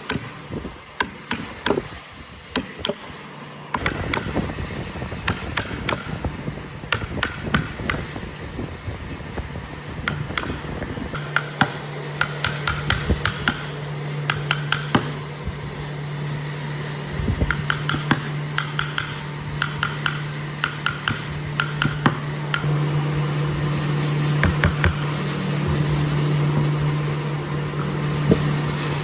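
Repeated light knocks and taps on wood, with a steady machine motor hum that grows much stronger about a third of the way in.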